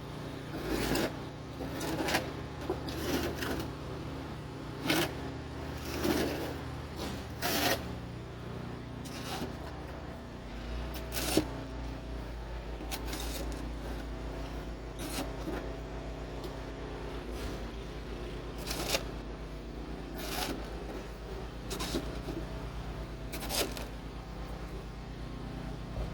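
Snow shovel scraping and striking packed snow, one stroke every second or two. A steady low rumble runs underneath, growing stronger about ten seconds in.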